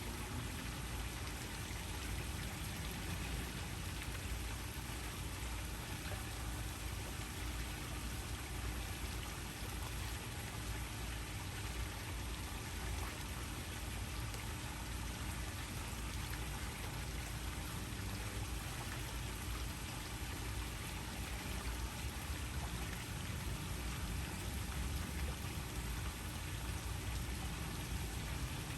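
Waterfall: a steady, unbroken rush of falling water, heaviest in the low end, with a faint steady hum beneath it.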